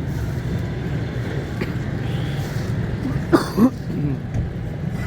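A steady low motor hum, with a short vocal sound from a person about three and a half seconds in.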